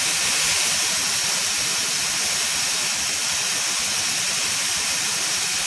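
Compressed air hissing steadily as it escapes from the 50 L air compressor's tank, letting the tank down from over-pressure.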